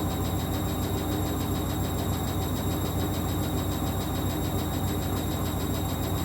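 1994 Ocean 900 washing machine running: a steady mechanical hum with a fast, even pulsing.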